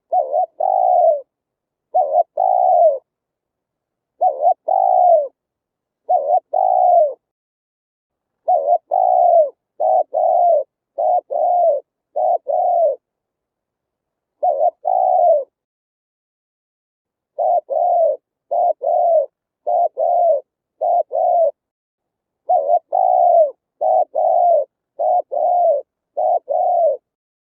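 Spotted dove cooing: short, low, slightly falling coos in runs of two to five, with brief silent gaps between runs.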